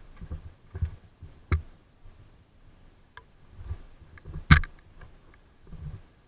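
Irregular soft knocks and clicks, with one sharp, loud click about four and a half seconds in.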